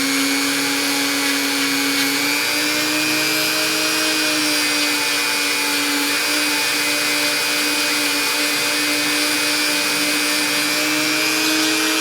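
Dremel rotary tool running steadily at high speed with a constant whine, working on old rusty pliers, then switched off and spinning down right at the end.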